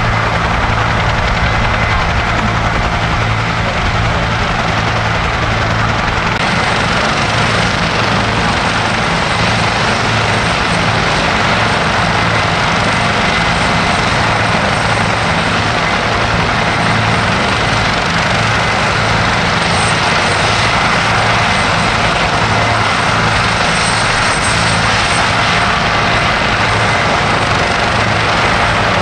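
Helicopter turbine engines running with the rotors turning: a steady, fast rotor beat under a constant high turbine whine, loud and unbroken.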